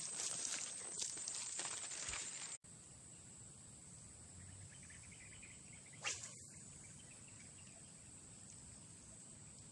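Insects chirring in a steady, high-pitched drone. For the first couple of seconds there is louder rustling and clicking handling noise; after an abrupt cut the drone continues on its own, broken by a single sharp click.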